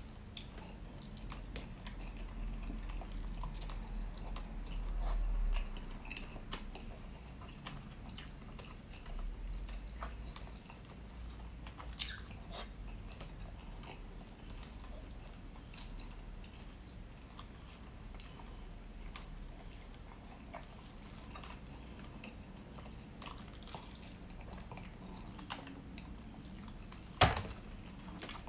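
Close-miked chewing of soft, juicy rotisserie chicken, with wet mouth sounds and many small clicks, and a sharp click about a second before the end.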